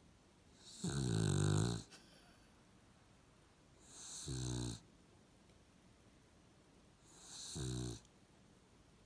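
Puggle (pug–beagle cross) snoring: three rattling snores about three seconds apart, each lasting about a second, the first the loudest.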